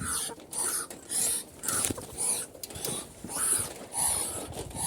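Footsteps crunching at a steady walk, about two steps a second.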